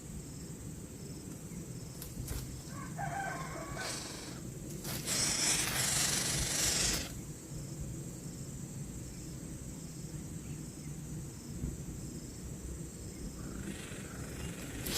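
A rooster crows once, about three seconds in, followed by a loud hissing noise lasting about two seconds, over a steady low background rumble.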